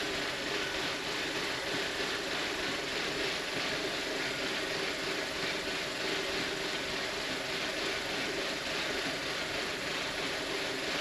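2007 Audi A4's 2.0 TFSI turbocharged four-cylinder engine idling steadily but roughly, with the tensioner rattling. It almost sounds like a misfire, which the owner puts down to a torn low-pressure fuel hose at the high-pressure fuel pump starving it of fuel pressure.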